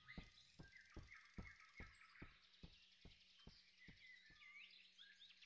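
Very faint birds chirping, with a row of soft, evenly spaced taps, about two and a half a second, that gradually fade away.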